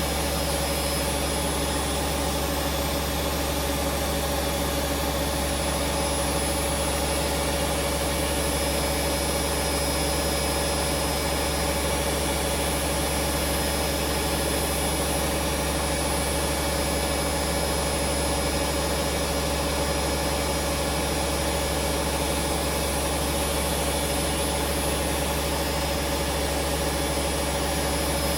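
Hoover Vision Dynamic washing machine running steadily with an unchanging hum and a constant mid-pitched whine.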